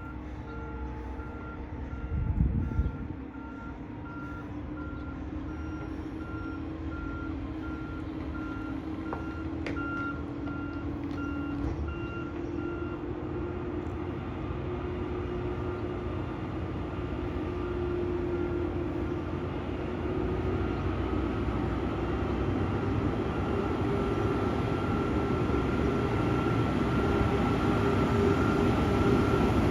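Mack LEU rear-loader garbage truck reversing, its backup alarm beeping steadily at one pitch over the running diesel engine, which gets steadily louder. A brief loud low burst comes about two and a half seconds in.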